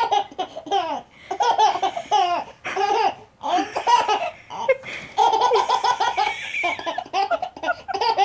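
A baby laughing in repeated bouts, high-pitched and breathy, with a quick run of short laughs about five seconds in.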